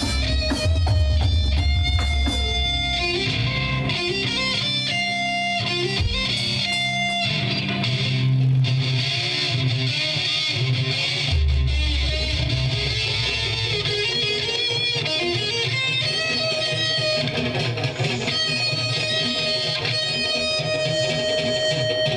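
Amplified electric guitar playing single notes and chords, with heavy low bass notes in stretches.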